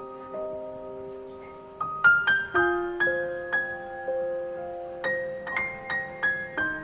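Gentle solo piano music: slow, held notes, then short phrases of quicker, higher notes about two seconds in and again near the end.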